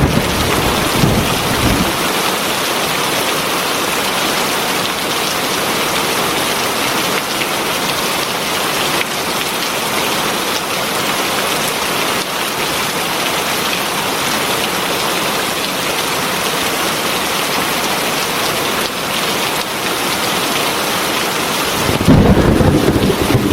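Heavy rain falling steadily, an even hiss of drops. A low rumble sounds in the first couple of seconds and another begins near the end.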